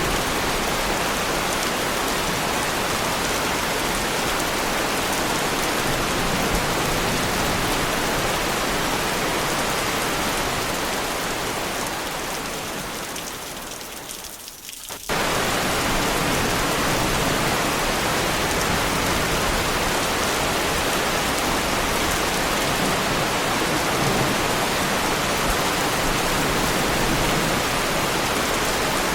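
Heavy rain falling steadily on a car, a dense even patter. About halfway through it fades down over a few seconds, then cuts back in at full level all at once, like the join of a looped recording.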